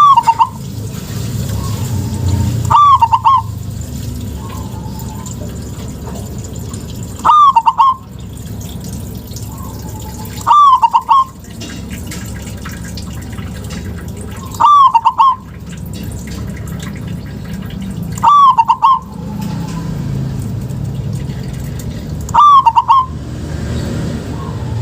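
Zebra dove (perkutut) cooing: a short, bright, quick-noted phrase repeated about every three to four seconds, seven times, over a steady low background noise.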